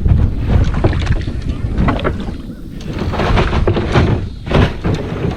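Wind rumbling on the microphone over a string of knocks and bumps from a kayak being handled in a hurry.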